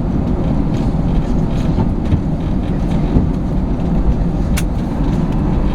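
Loud, steady low rumble in the cabin of an Airbus A321: engine and airframe noise as the jet comes in to land and rolls out on the runway, with a couple of faint ticks near the end.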